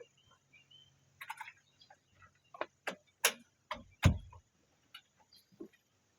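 Hand tools being handled: a string of irregular clicks and light knocks, with one heavier knock about four seconds in.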